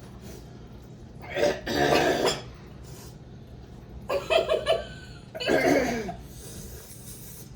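A person coughing in three bouts, about a second apart, after eating an extremely hot chili-coated nut: the coughing is a reaction to the burning heat in the mouth and throat.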